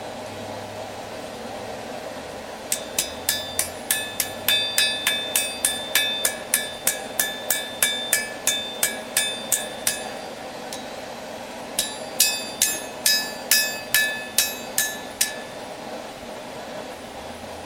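Hammer striking steel on an anvil with a bright metallic ring, as when forging a railroad spike into a knife. There are about twenty blows at roughly three a second, a brief pause, then about ten more, all over a steady background hum.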